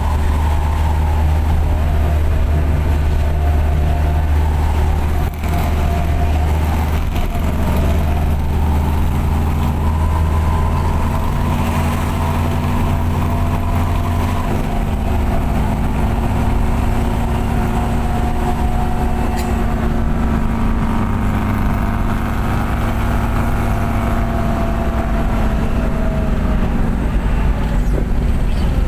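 Minibus engine with an aftermarket 'serigala' (wolf) exhaust, running steadily on the move and heard from inside. Its deep low drone changes to a different note about halfway through, as with a gear change or a change of throttle.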